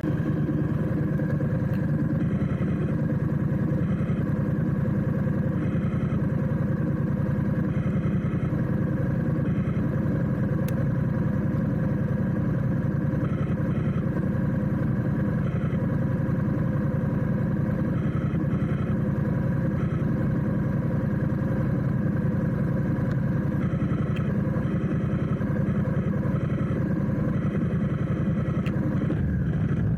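Motorcycle engine running steadily at low, even speed, with no big revs.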